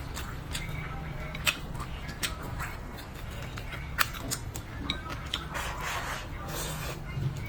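Close-miked eating sounds from a person chewing braised pig's trotters: wet chewing and lip smacks with scattered sharp clicks. A steady low hum sits underneath.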